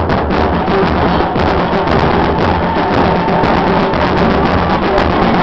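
Murga percussion playing a fast, driving rhythm: bass drums with cymbals mounted on top (bombos con platillo) struck together, dense and continuous.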